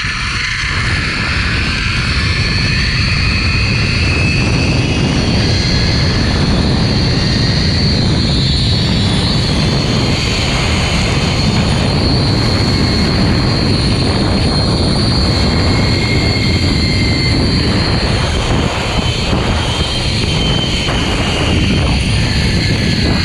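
Zipline trolley pulleys running fast along a steel cable with a steady high whine, over a heavy rush of wind on the microphone.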